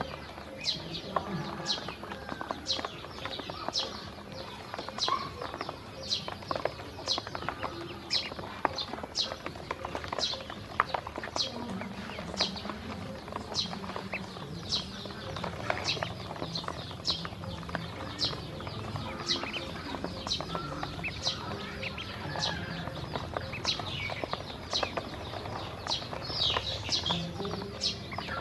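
Baby ducklings peeping: a steady run of short, high, falling peeps, about one or two a second, with scattered small clicks of pecking as they eat feed.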